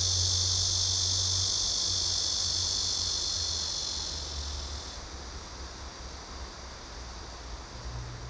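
Insects droning in a steady, high, even buzz that fades over the first five seconds, with a faint low hum underneath.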